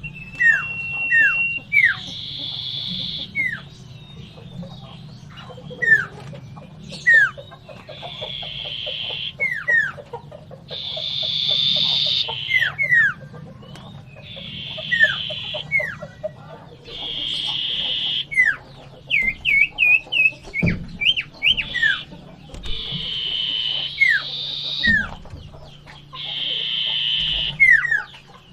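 Common iora (cipoh) giving agitated fighting calls: short, sharp downslurred whistles alternating with harsh buzzing calls of about a second each, repeated every few seconds over a steady low hum.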